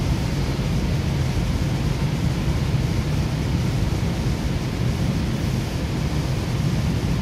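Cabin noise of a Goninan K-set electric train running at speed: a steady low rumble from the running gear on the rails, with an even hiss over it.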